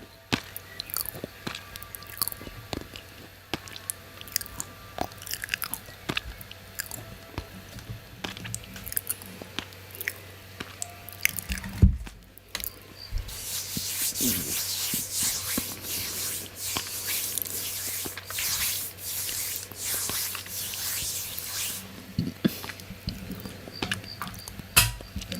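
Crunchy food being chewed close to the microphone: scattered small crunches and clicks. About halfway through there is a thump, followed by a steady hiss lasting about nine seconds.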